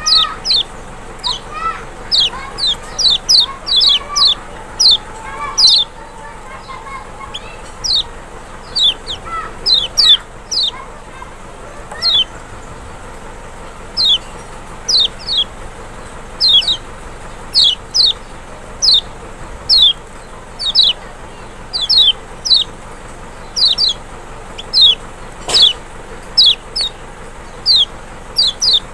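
Lemon-bellied white-eye (Lombok kecial, Zosterops chloris maxi) calling: short, sharp, downward-sliding chirps, repeated about once or twice a second. Fainter, lower calls come in the first ten seconds, and there is a single click near the end.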